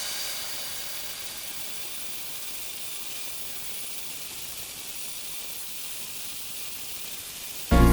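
Background music fading out into a steady high hiss, then music starting again abruptly near the end.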